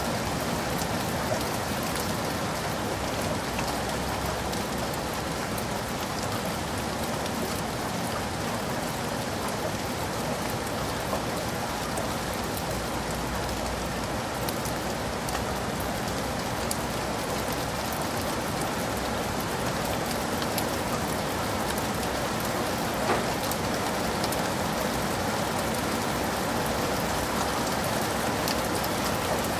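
Heavy rain falling steadily, a dense even hiss of drops with scattered individual drop ticks and one sharper tick about 23 seconds in.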